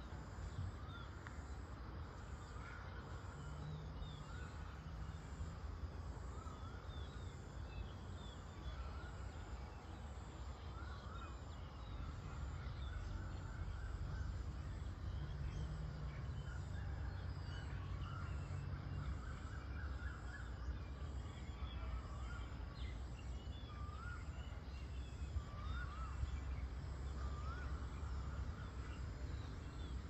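Several small birds chirping and calling over a steady low rumble. Near the end one bird repeats a short rising-and-falling call about every second and a half.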